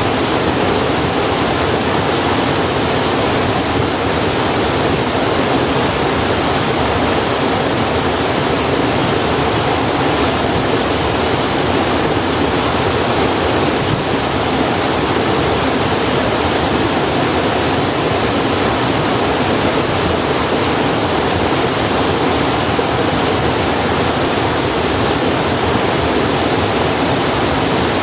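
Loud, steady rushing noise like running water, even and unbroken, with no separate crackles or pops standing out.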